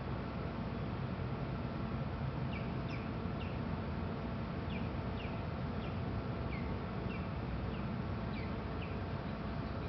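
A small bird chirping: short, high calls that fall in pitch, singly or in pairs, starting a couple of seconds in, over a steady low background rumble.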